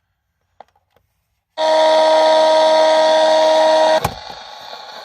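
A few small clicks, then a loud steady horn-like electronic tone for about two and a half seconds that cuts off suddenly. It gives way to quieter hissing radio static with sharp clicks, the sound of a spirit box sweeping through stations.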